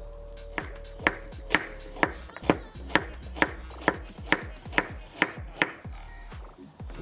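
Knife chopping food on a cutting board, a steady run of about a dozen sharp strokes at roughly two a second, stopping about a second before the end.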